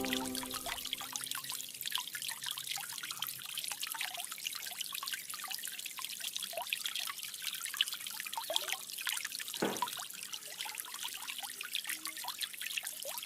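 Water trickling and splashing over a small cement desktop waterfall, with many small irregular drips and plinks. Background music fades out in the first second.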